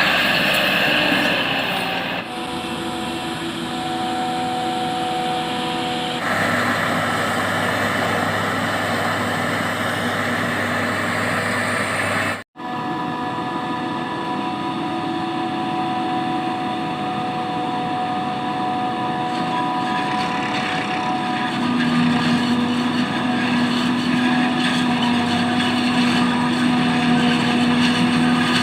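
Tractor-driven farm machinery running steadily, its engine hum holding a steady pitch. The sound changes abruptly a few times, with a brief dropout about twelve seconds in.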